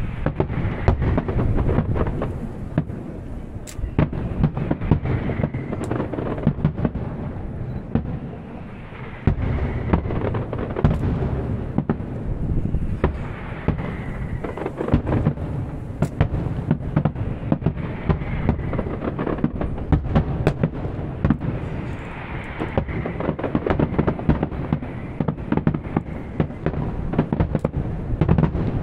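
Aerial fireworks shells bursting in quick succession, many sharp bangs overlapping into a continuous rolling rumble.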